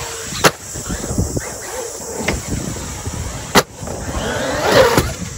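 Electric motor of a large RC car whining and revving in short bursts, with two sharp knocks of the truck hitting or landing, about half a second in and again near the middle.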